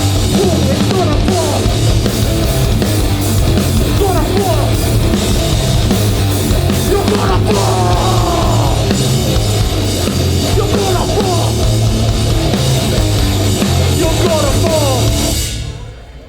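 Hardcore punk band playing live with loud distorted guitars, bass and drums, the song stopping abruptly near the end.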